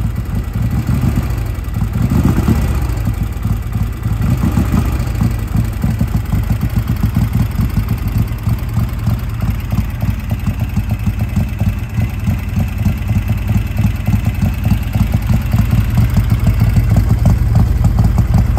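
Newly revived 1957 Harley-Davidson Panhead V-twin running at idle, with a steady, even beat of firing pulses. It is blipped up in revs briefly about two seconds in and again about four and a half seconds in.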